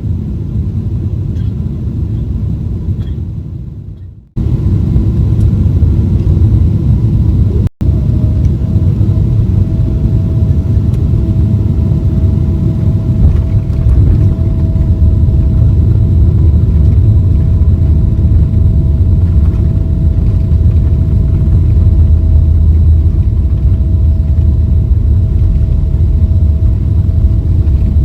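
Loud, steady low rumble of a Boeing 777-300ER's GE90 engines and airflow, heard from inside the cabin. It drops out briefly twice, about four and eight seconds in. After the second break a steady hum comes in over it.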